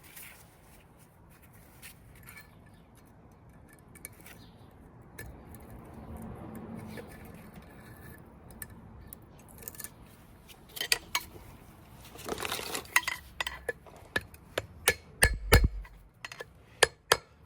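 Metal clicks and clinks of a wheel bearing's retaining clip being worked into place in the hub. It starts as scattered clicks and becomes a quick run of sharp taps in the last few seconds, with one dull low thump near the end.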